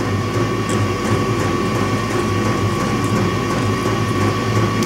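A steady mechanical hum and whir with a thin, steady high tone running through it.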